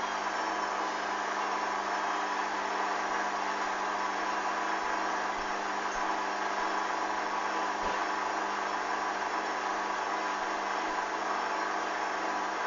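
Hoover DYN 8144 D washing machine running steadily: an even mechanical hum with a constant motor whine. A single low knock about eight seconds in.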